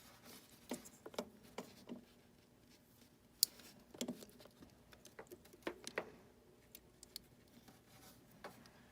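Scattered clicks, taps and light knocks from a small electrical test tool and its leads being handled and fitted, over a faint steady hum.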